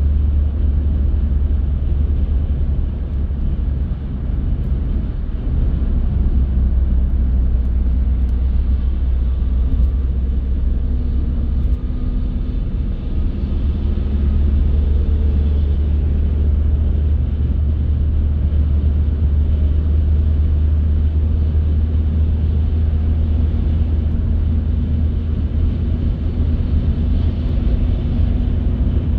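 A car driving along the road: a steady, deep rumble of engine and tyre noise that holds constant throughout.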